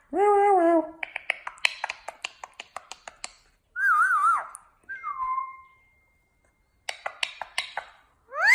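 A pet parrot whistling and clicking: a short call, a quick run of clicks, two short wavering whistles, more clicks, and a rising-then-falling whistle near the end.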